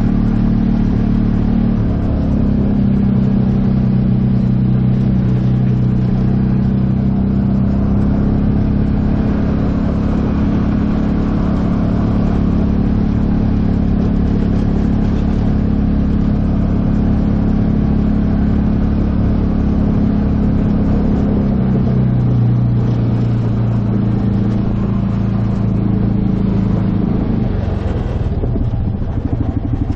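Freshly rebuilt 2015 Polaris Ranger 570 UTV's single-cylinder engine running steadily under way, its pitch shifting a few times with the throttle. Near the end it settles to a lower, slower pulsing note.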